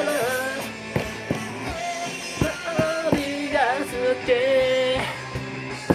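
Rock band music: a pitched melody line that bends and wavers, over drum hits.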